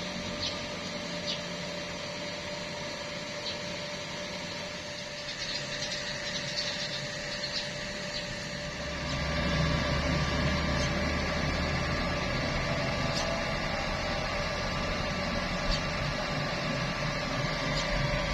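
Electric arc welding: a steady hiss and machine hum with scattered small crackles, growing louder and deeper about nine seconds in.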